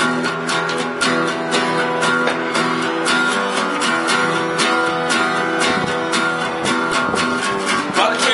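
Instrumental music of strummed guitar chords at a steady rhythm.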